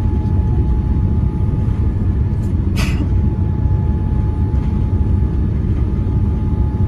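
Steady low rumble of airflow and engine noise inside a Boeing 787-9 cabin during descent, with a faint steady tone running through it. A short hiss comes about three seconds in.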